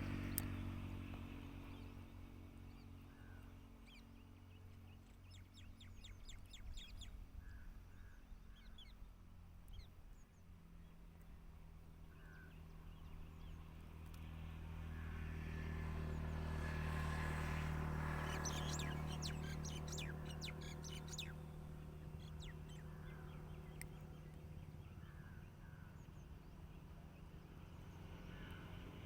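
Birds calling: scattered short chirps and rapid trills, over a low steady drone that grows louder in the middle and then fades.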